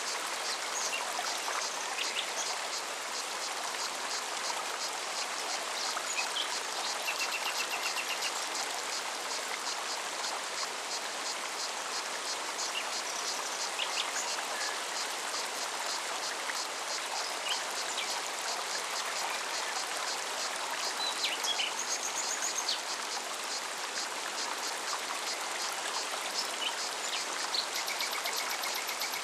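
Mountain forest stream running steadily, with a cicada's song pulsing rapidly and evenly throughout and a few short bird chirps scattered through.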